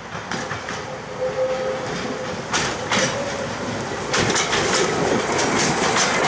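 Passenger carriages propelled by a Drewry 0-6-0 diesel shunter roll past, their wheels clicking over the rail joints. The train grows louder as it nears, most of all about four seconds in.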